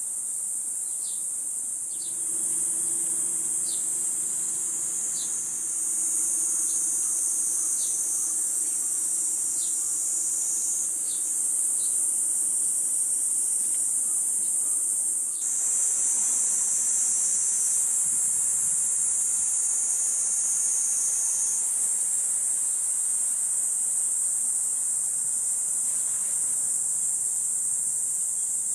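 Steady high-pitched buzzing of a summer insect chorus, with short falling chirps repeating about every second and a half in the first ten seconds and a faint low hum in the first half.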